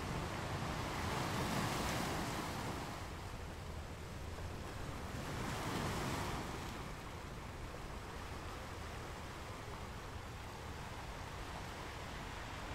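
Sea wash and wind noise on the microphone, with two louder swells of rushing water about two and six seconds in.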